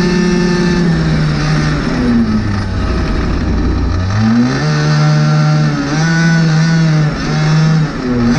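Rovan RF5 RC rally car's 36cc two-stroke petrol engine running at high revs. It drops to a lower pitch about two seconds in, revs back up around four seconds, then is held high with brief throttle lifts about once a second.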